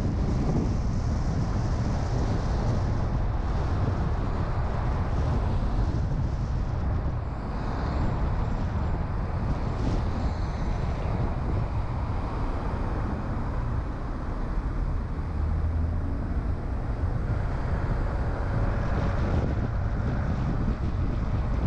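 Steady wind rumble on the microphone with the road and engine noise of a moving car underneath.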